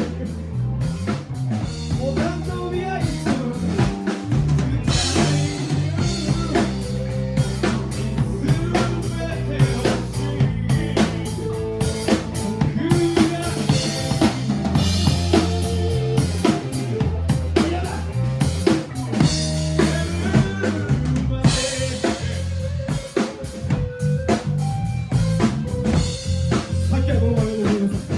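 Live rock band playing an instrumental passage with no vocals. A drum kit drives it, with bass drum, snare and rimshot hits, under low bass notes and pitched guitar lines.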